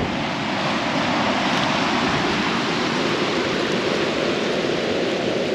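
Steady rushing noise of ocean surf and wind, with no change in level.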